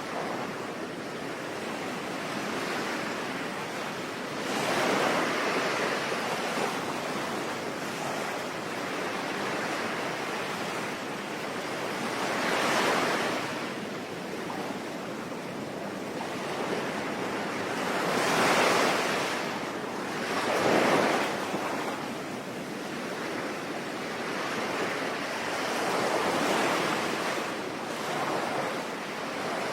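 Sea waves breaking and washing ashore under steady rain: a constant hiss with a swell every few seconds, the biggest waves arriving about two-thirds of the way through.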